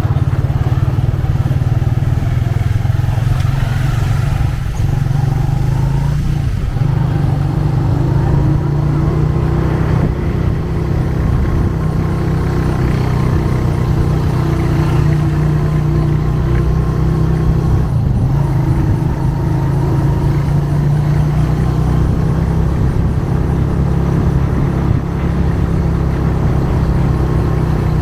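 Motorcycle engine running steadily while riding, a loud low hum close to the microphone, its pitch shifting briefly a few seconds in and again about two-thirds of the way through as the speed changes.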